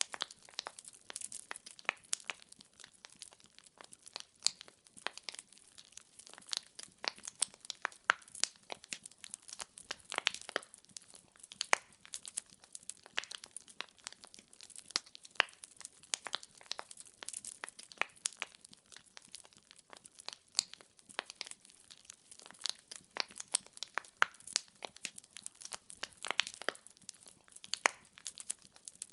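Burning firewood crackling: an unbroken stream of small crackles with sharper, louder pops scattered irregularly, several a second.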